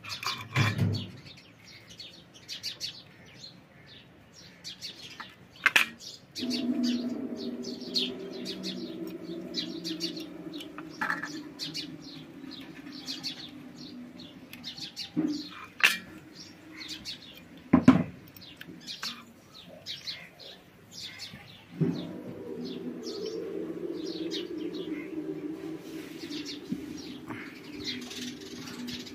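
Small birds chirping again and again, with a few sharp clicks of metal parts being handled. A steady low hum comes in about six seconds in, stops about halfway, and returns about three-quarters of the way through.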